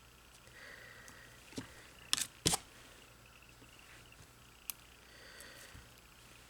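Small clicks and taps of nail-stamping tools being handled, with soft scraping strokes, as of a scraper drawn across a metal stamping plate. Two sharp clicks a little over two seconds in are the loudest.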